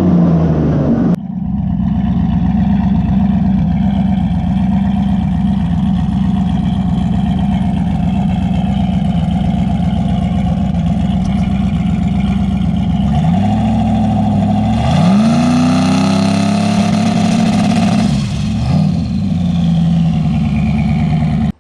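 Turbocharged S10 drag truck's engine idling with a choppy, lumpy rhythm, blipped up in revs a few times in the second half and dropping back to idle each time.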